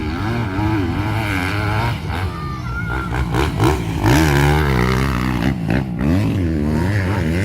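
Grasstrack racing motorcycle engines revving, their pitch rising and falling repeatedly as the throttles open and close.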